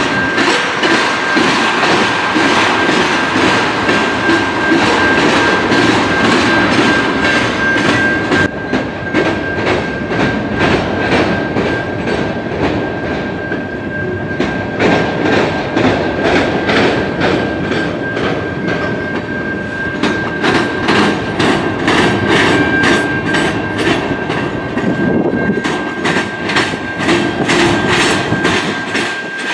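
Railroad cars rolling past at speed, the wheels clacking over rail joints in a quick, even rhythm. A thin, steady high-pitched wheel squeal runs throughout.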